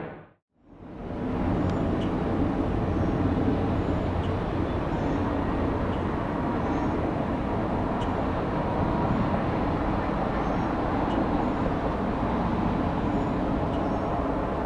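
Steady rumble of distant engine and traffic noise, with faint bird chirps over it. It begins after a brief cut to silence at the start.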